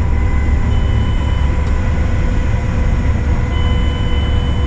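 Case IH combine running: a steady deep rumble of engine and machinery, with several constant whining tones above it.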